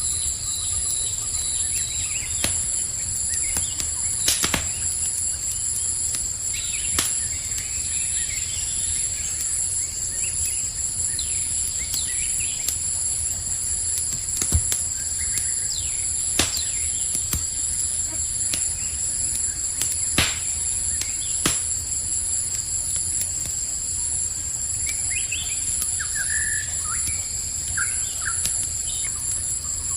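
Campfire crackling, with a low rumble of the flames and scattered sharp pops, under a steady high-pitched chorus of crickets. A few short bird chirps come near the end.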